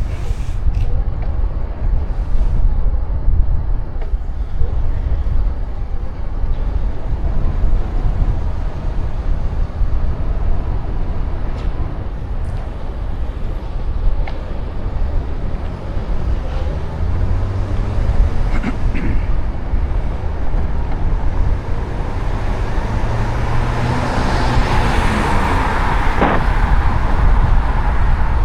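Wind rumbling on the microphone of a moving road bicycle. A motor vehicle approaches and passes about three quarters of the way through, its noise swelling and then fading.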